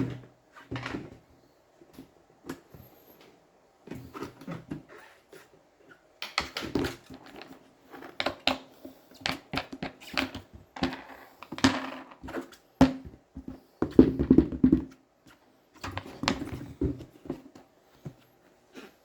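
Unboxing handling noise: packaging and plastic parts rustling, clicking and knocking in irregular bursts with short pauses, busiest in the middle.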